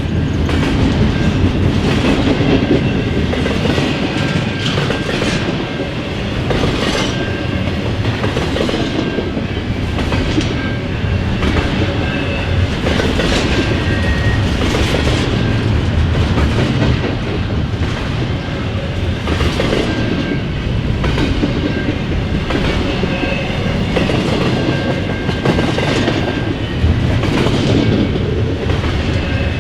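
Freight cars of a CN intermodal train rolling past at speed, with steady rumbling and a regular clickety-clack of wheels over rail joints about once a second. A faint high ringing from the wheels runs under it.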